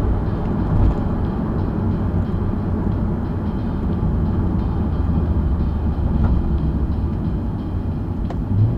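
Nissan 370Z Nismo's naturally aspirated V6 cruising at low, steady revs under road and tyre noise. The engine note rises briefly near the end.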